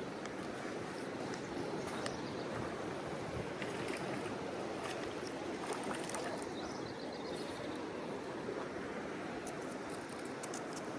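Steady rush of the Kern River's flowing water, with a few faint clicks over it.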